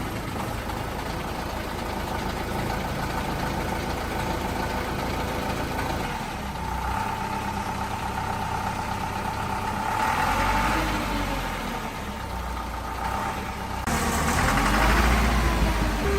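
Diesel engine running just after starting up, with its restored injection pump fitted, and a thin steady whine over the running. The engine picks up twice, about ten seconds in and again near the end.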